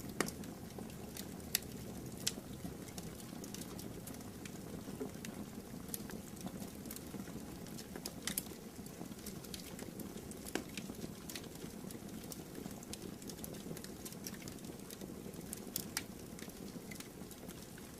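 Campfire burning, with a steady low rush of flames and sharp, irregular crackles and pops from the burning wood.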